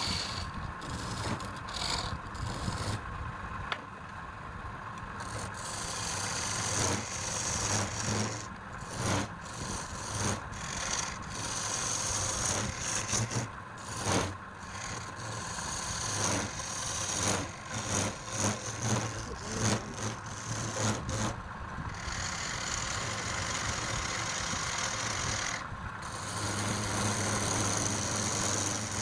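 Wood lathe running, with a tool or abrasive working the spinning wood: a rasping hiss that comes and goes over a steady motor hum, in short repeated passes through the middle.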